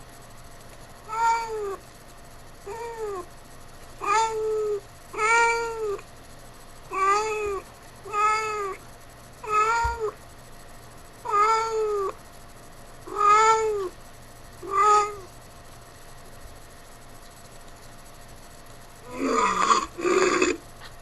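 A cat meowing over and over: about a dozen short meows, each rising and then falling in pitch, with short pauses between them. Near the end a louder, rougher, rasping noise starts.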